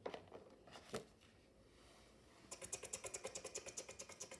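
Faint clicks: two single clicks, then from about two and a half seconds in a fast, even run of light clicks, about eight a second.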